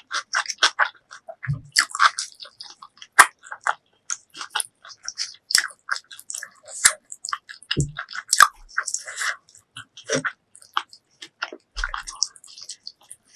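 Close-miked chewing and biting of braised pork leg: a dense, uneven run of short mouth clicks and smacks, with a few lower thuds.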